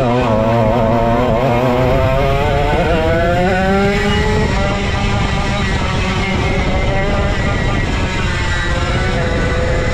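Vintage go-kart's 135cc Sudam engine running hard at race pace. Its pitch wavers at first, then climbs steadily for about two seconds as the kart accelerates, and holds high through the rest.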